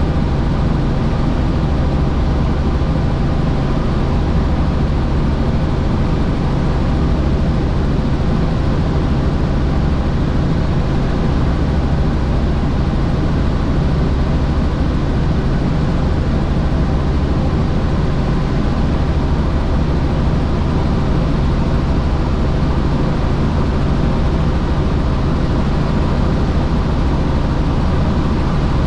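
Helicopter in flight: a steady, unchanging drone of engine and rotor, low hum under a hiss.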